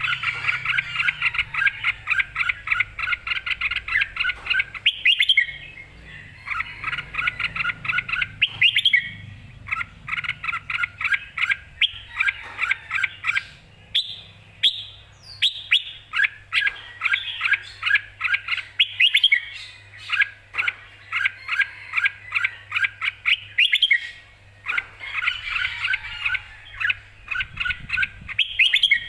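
Red-whiskered bulbul singing lively, full song: runs of quick, clear whistled notes in phrases of a few seconds, each broken off by a short pause.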